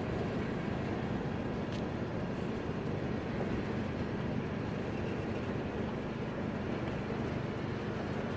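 Freight train's covered hoppers and tank cars rolling steadily past, a continuous noise of steel wheels on rail.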